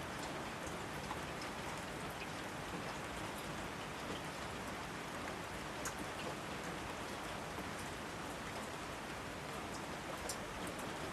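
Steady rainfall, an even hiss with scattered sharper drops pattering on surfaces.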